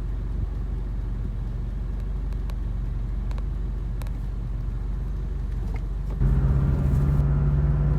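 Road noise heard from inside a moving car: a steady low rumble. About six seconds in it suddenly grows louder, with a steady low hum added.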